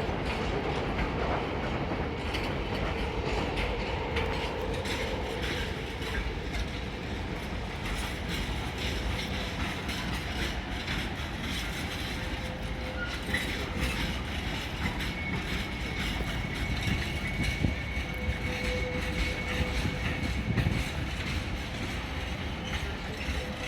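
A train running through the station, wheels clicking over the rail joints with a steady rumble. A faint thin high squeal comes in about halfway through.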